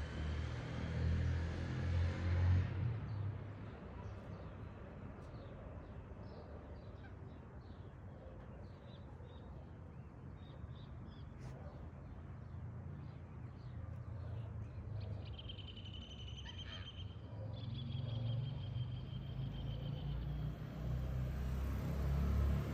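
Birds calling: many short high chirps, then a rapid pulsed, trilling call held for several seconds in the second half. A low rumble is loudest at the start and near the end.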